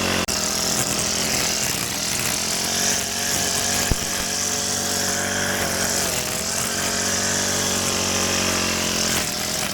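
Small gasoline engine of a grass cutter running at high speed, its pitch wavering slightly as it works, with a brief break just after the start and a single sharp tick about four seconds in.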